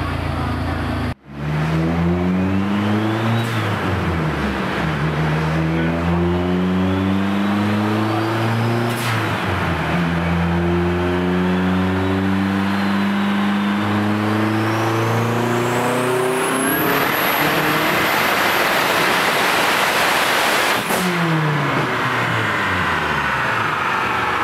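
Turbocharged Dodge Neon SRT-4 four-cylinder engine at full throttle on a chassis dyno. After a brief break about a second in, its note climbs in several rising sweeps with short dips between them, a high whistle rising along with it. Later a loud rushing noise and a steady high whistle take over until the throttle is let off near the end and the engine winds down.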